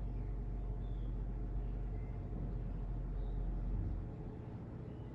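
A low, steady rumble like passing traffic, which fades away about four seconds in.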